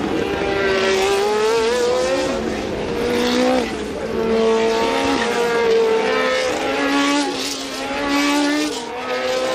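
Several 1982 Formula One cars running at racing speed, their engine notes climbing and dropping sharply with each upshift as they accelerate.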